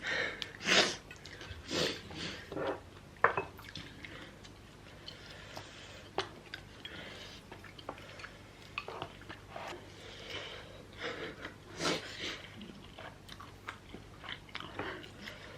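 Close-up chewing and biting of people eating rosé tteokbokki, with a few short sharp clicks along the way.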